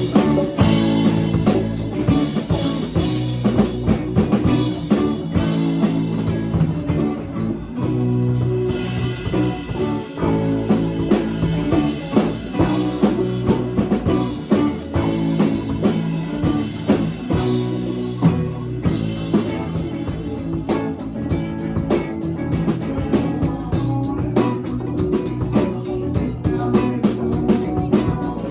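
A live band with electric guitar and drum kit playing a blues-rock song, with steady drum beats throughout.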